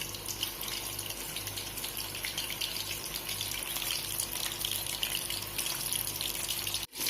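Corn-chip-coated chicken pieces deep-frying in oil on a low flame: a steady sizzle of fine crackling. It breaks off for an instant near the end.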